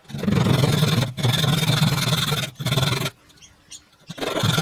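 Power saw cutting into old, dry pine, run in bursts of one to two seconds that start and stop sharply, with a pause of about a second after the middle.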